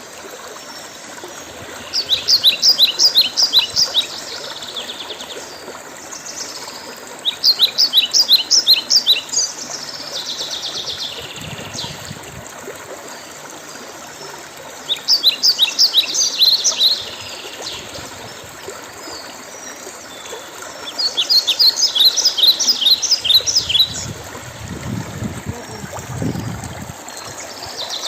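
A songbird singing four phrases of rapid repeated high notes, one about every six seconds, over the steady rush of running stream water. A brief low rumble comes near the end.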